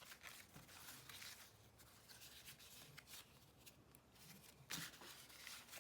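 Near silence with faint rustling and light ticks of cardstock being handled, and a slightly louder rustle near the end.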